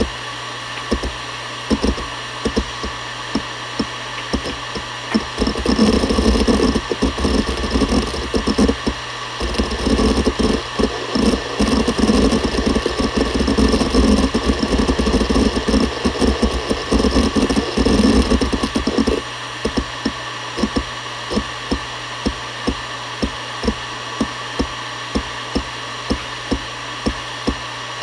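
Seagate Barracuda ES.2 ST31000340NS hard drive spinning with a steady hum while its heads seek. Evenly spaced seek clicks give way about five seconds in to a long stretch of rapid, louder seek chatter. This stops near the end of the first two-thirds, and the single clicks come back a little faster than once a second.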